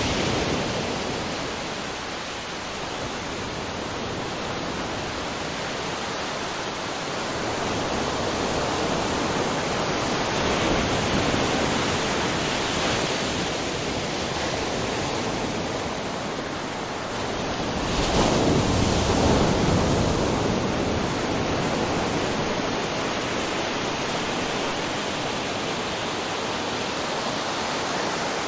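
Ocean surf: a steady wash of waves with slow swells, one wave louder about two-thirds of the way through.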